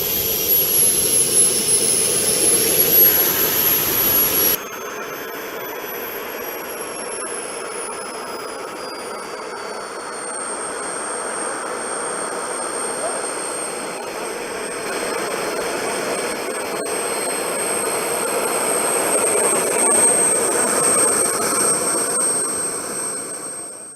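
JetCat SPT-10 RX model turboprop running with a high turbine whine. About four and a half seconds in the sound changes abruptly and gets quieter. The whine then falls in pitch over several seconds and holds steady.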